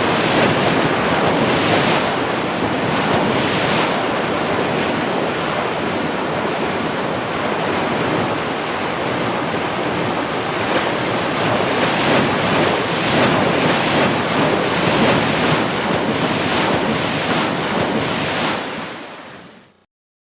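Ocean surf: a steady wash of breaking waves with gentle swells, fading out near the end.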